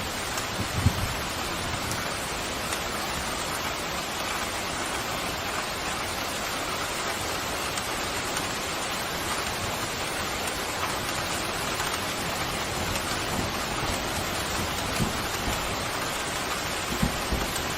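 Steady pouring rain, an even hiss, with a few short low thuds about a second in and near the end.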